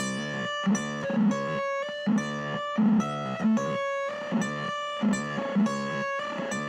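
Electric guitar playing a repeating riff of short, sharply picked notes, with the same pattern coming round about every two seconds.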